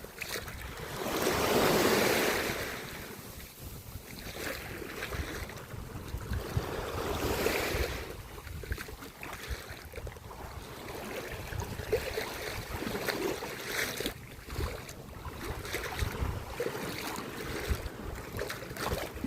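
Sea waves washing in, a big swell of surf about two seconds in and another around eight seconds, with wind buffeting the microphone.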